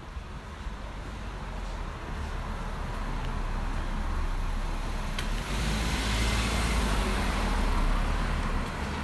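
A car passing close by on a street: its engine and tyre noise grow louder, peak about six to eight seconds in, then drop off near the end.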